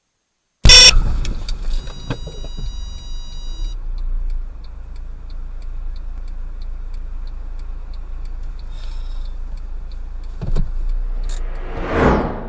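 A car collision picked up by a dashcam: a sudden loud crash just under a second in, then a high ringing tone for about two seconds. A steady low vehicle rumble carries on under a light ticking about three times a second, with another thump and a swelling noise near the end.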